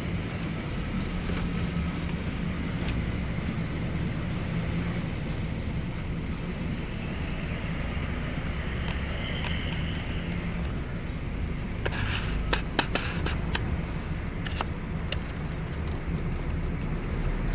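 Scania K410iB double-decker bus under way: a steady low rumble of engine and road noise, with a short spell of sharp clicks and rattles about twelve seconds in.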